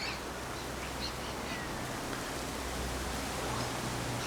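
Steady outdoor background noise: an even hiss over a low steady hum, with a few faint high chirps in the first second and a half.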